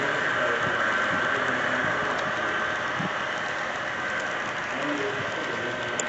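Model train running on layout track: a steady hum and whine from the locomotive's motor and gearing, with faint wheel clicks.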